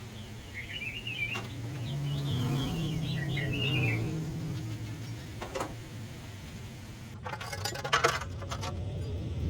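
Small birds chirping over a steady low hum, with a single sharp click midway and a short burst of clattering clicks near the end.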